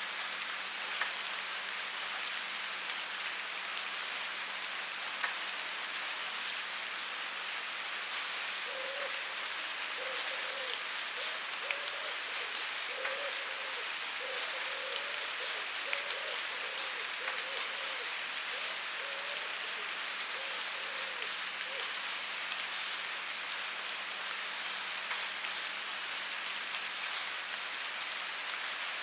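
Steady rain falling, an even hiss with individual drops pattering and clicking. Through the middle a faint series of short pitched sounds comes and goes.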